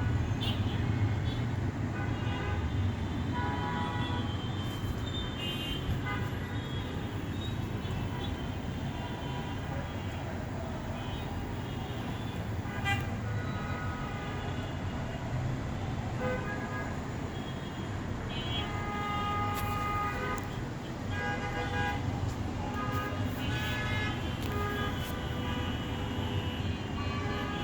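Road traffic with a steady low rumble and frequent short horn toots.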